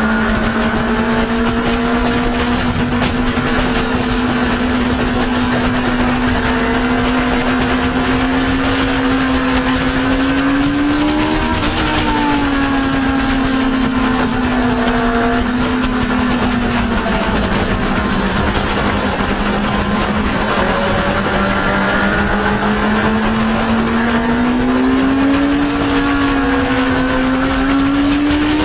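Motorcycle engine running at cruising speed over a steady rush of wind and road noise. Its pitch holds mostly steady, climbs briefly about eleven seconds in, then climbs more slowly over the last few seconds before dropping back near the end as the throttle eases.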